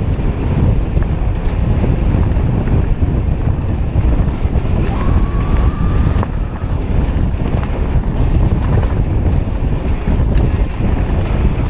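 Wind buffeting the microphone of a camera riding along on a mountain bike descent, a heavy low rumble throughout. A brief faint high tone comes in about five seconds in.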